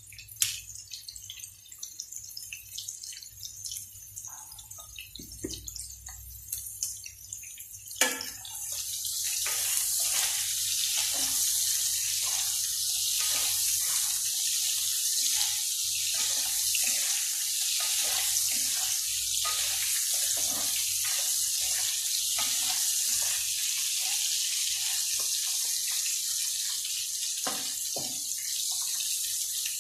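Shrimp frying in oil in a nonstick pan, crackling quietly at first; about eight seconds in a sharp knock comes and the frying jumps to a loud, steady sizzle full of small pops, with the spatula tapping now and then as the shrimp are turned.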